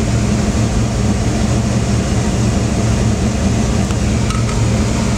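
Ford Falcon engine running steadily at an even speed, with its carburettor just reinstalled.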